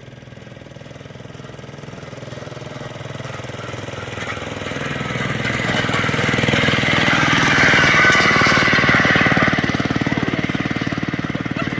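Railroad speeder (small rail motorcar) with its small engine running with a fast, rapid-fire chatter, coming closer and louder for about eight seconds and then passing by.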